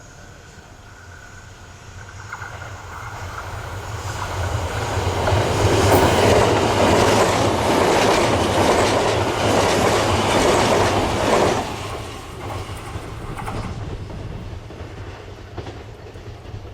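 JR East E655 series electric train passing at speed: it draws nearer, runs loudly past with its wheels clicking over the rail joints, then falls away sharply and fades.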